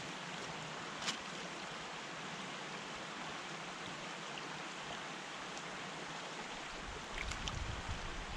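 A small brook running, a steady even rush of water. A short click comes about a second in, and a low rumble of wind on the microphone starts near the end.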